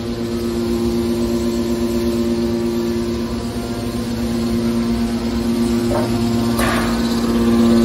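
Scrap car baler machine running with a steady hum, then two knocks about six seconds in, the second louder and ringing on briefly.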